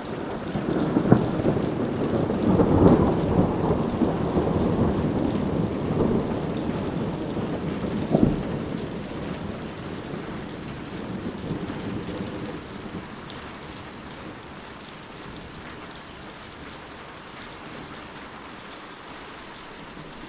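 Thunder rolling over steady rain: a long low rumble that swells in the first few seconds, a sharp crack about eight seconds in, then the thunder dies away, leaving only the even hiss of falling rain.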